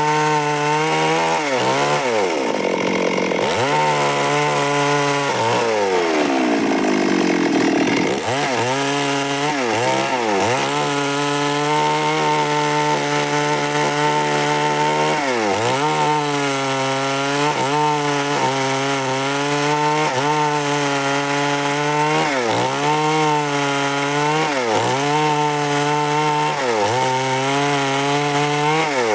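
Stihl MS 382 two-stroke chainsaw running at high revs while sawing wood. The revs dip briefly and recover again and again, and about six seconds in they sag slowly for a couple of seconds before picking up again.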